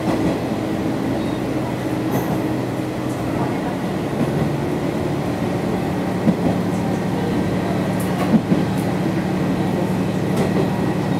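Sanriku Railway diesel railcar running along the line, a steady engine drone over wheel and rail noise. The engine note drops lower about four seconds in, and a couple of short knocks come through near the middle.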